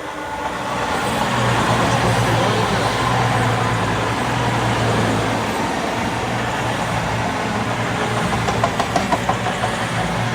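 Class 221 Super Voyager diesel multiple unit, its underfloor diesel engines running with a steady low hum that grows louder over the first two seconds as the train comes by. A short quick run of clicks comes near the end.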